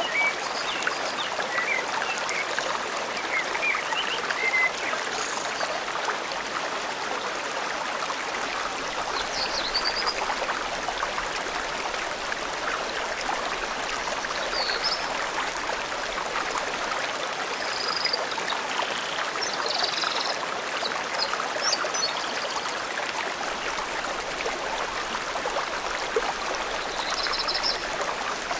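A forest stream running steadily with trickling and babbling water, and small birds chirping in short high calls now and then over it.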